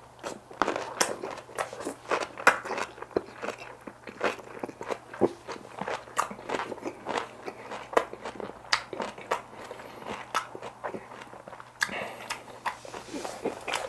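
A person chewing crunchy cabbage-kimchi wraps: many wet crunches and clicks, several a second, uneven in rhythm.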